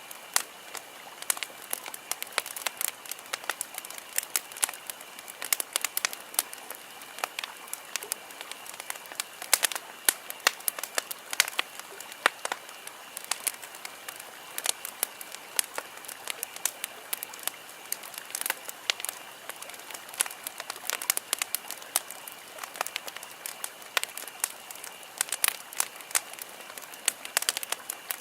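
Wood campfire burning, with dense irregular crackles and pops over a steady hiss; a faint steady high tone sits underneath.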